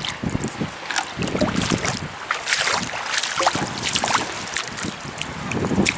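Outdoor beach sound: wind buffeting the microphone over the wash of the sea, with irregular crisp scraping and crunching sounds.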